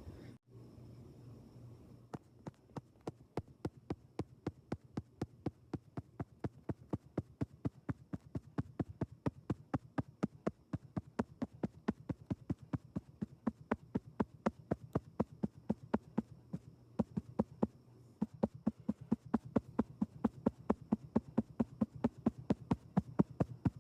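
Rapid, even ASMR tapping, about four crisp taps a second, starting about two seconds in and growing louder toward the end.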